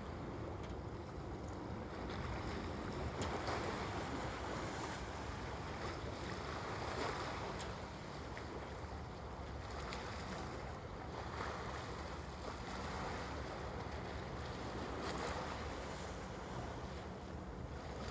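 Harbour water lapping and washing against the waterfront edge, swelling every three to four seconds, with a steady low rumble of wind on the microphone.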